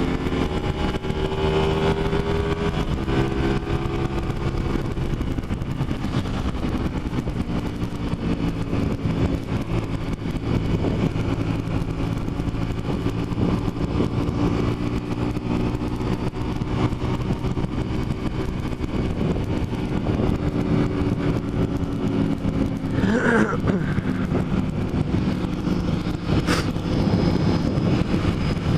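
Motorcycle engine running steadily while riding, its pitch drifting slightly with the throttle, over a steady rush of wind and road noise. A brief rising-and-falling tone comes in about three-quarters of the way through.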